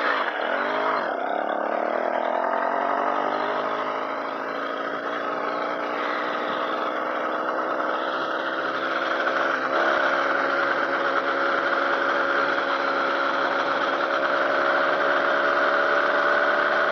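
Motorized bicycle's small engine pulling away, its pitch climbing over the first couple of seconds, then running steadily at riding speed.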